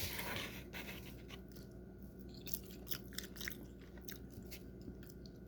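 A person chewing and biting food close to the microphone, with scattered short wet clicks and smacks; a softer rustle of noise just at the start.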